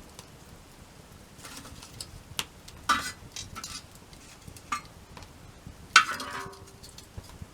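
Several clinks and knocks of metal on metal. The loudest, about six seconds in, rings on briefly.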